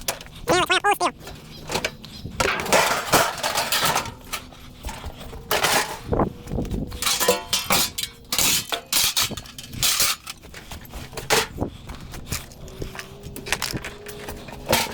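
Pieces of scrap metal from a stripped dishwasher clattering and clinking as they are handled and dropped into containers, in irregular bursts. A short animal call sounds about half a second in.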